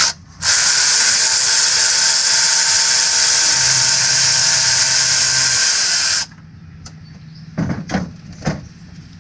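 Electric ratchet spinning out a bolt on the engine's front timing cover. It runs steadily for about six seconds with a high whirring hiss, then stops abruptly.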